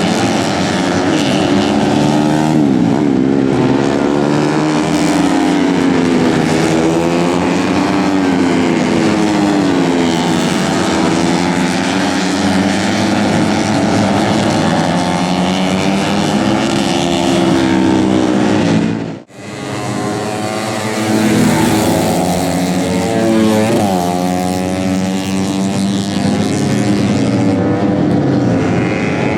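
Tuned 130 cc four-stroke underbone race motorcycles at racing speed, several engines heard at once, their pitch rising and falling as they rev up and back off. The sound cuts out briefly about two-thirds through, then the engines continue.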